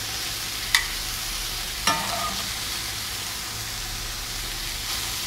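Tofu and broccoli stir fry sizzling steadily in a hot skillet, the burner off. Two light clinks of a utensil, about a second in and again near two seconds.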